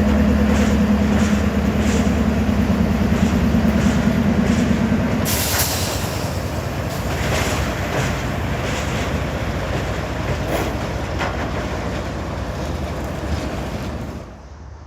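Train passing close by: a low steady engine drone for the first five seconds, then railcars rolling past with regular clicks of wheels over rail joints. The sound drops off sharply near the end.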